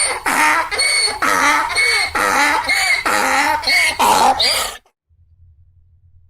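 Donkey braying: a long run of rhythmic hee-haw calls that cuts off about five seconds in.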